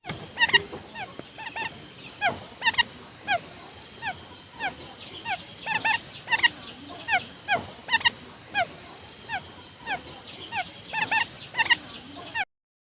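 Quail calling, used as a lure call: a rapid, uneven series of short, downward-sliding whistled notes, several a second, sometimes in quick pairs and clusters. The calls cut off suddenly near the end.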